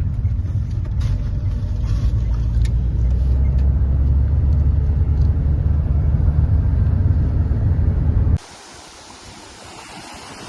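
Steady low rumble of a car in motion, with a few faint clicks, cut off abruptly about eight seconds in and followed by quieter wind noise outdoors.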